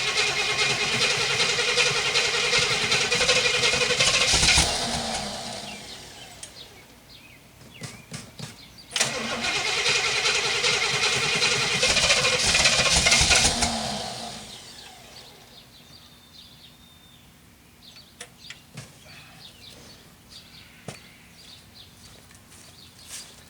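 1966 Pontiac Catalina's 389 V8 being cranked on a cold start after six years: two attempts of about four to five seconds each, and each fades away without the engine settling into a run. The owner takes it for a stuck choke. Faint scattered clicks follow in the second half.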